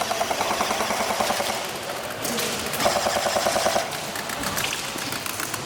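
Airsoft guns firing in rapid full-auto bursts, with a dense burst about three seconds in.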